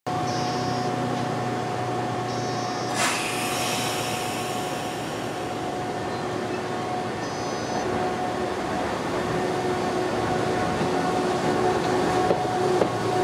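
Nishitetsu 600 series electric commuter train pulling into a station platform, its running noise growing louder as it draws alongside, with a few wheel clicks near the end. A short sharp hiss comes about three seconds in, and there are a few brief high beeps.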